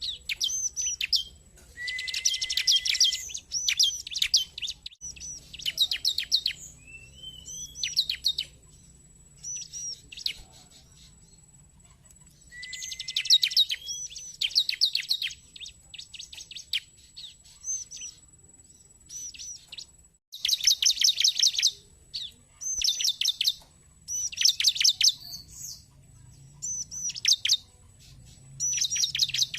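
Bar-winged prinia (ciblek) calling: repeated bursts of fast, high chirps and short trills, a new burst every second or two with brief pauses between. A faint steady high whine runs underneath.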